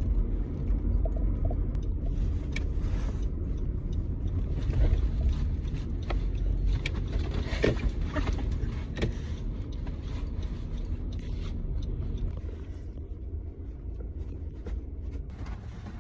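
Car running, heard from inside the cabin: a steady low road and engine rumble with scattered small clicks and rattles. It gets quieter over the last few seconds.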